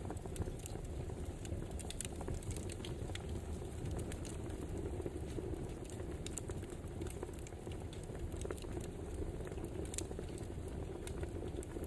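Burning firewood crackling: a steady low rush of flame with frequent irregular sharp crackles and pops.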